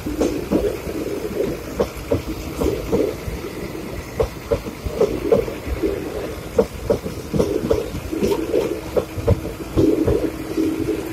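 Indian Railways passenger coaches rolling past close by: a steady rumble with wheels knocking over the rail joints, and a faint steady hum joining about three-quarters of the way in.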